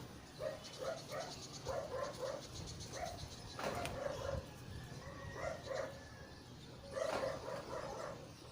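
Repeated short animal calls in runs of several, with a sharp click a little past three and a half seconds in.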